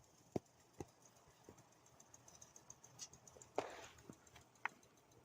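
Near silence broken by a few faint, scattered clicks and knocks, about half a dozen short taps spread over several seconds.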